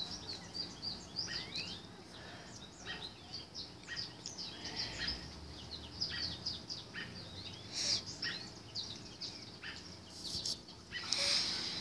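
Small birds chirping in the trees, many short quick chirps one after another, with a brief hiss about eight seconds in and again near the end.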